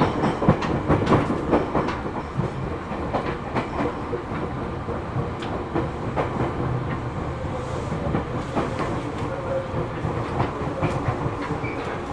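Seibu New 2000 series electric train heard from inside the car, rolling at low speed with irregular wheel clacks and knocks over rail joints and points. A flat spot on a wheel adds a knocking beat.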